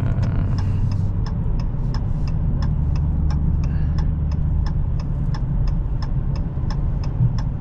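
A car's turn-signal indicator clicking steadily, about three times a second, over the low steady drone of the Challenger Hellcat's supercharged 6.2-litre V8, heard inside the cabin.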